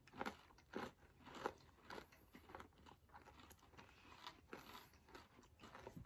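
Crunching of candy-coated, pretzel-filled white chocolate M&M's being chewed, a crisp crunch about every half second, quieter toward the end.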